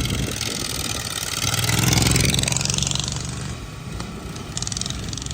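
Racing lawn mower engines running hard, one growing louder as it passes close, loudest about two seconds in, then fading away.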